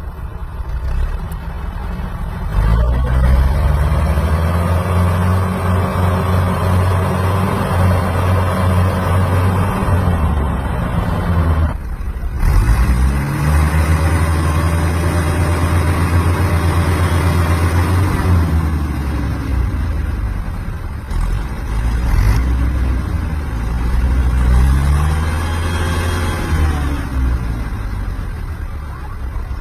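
Massey Ferguson 385 tractor's diesel engine revving hard under load in a tractor tug-of-war pull. It climbs to high revs and holds there for several seconds, dips briefly near the middle, climbs and holds again, then falls off, with another short rise and fall near the end.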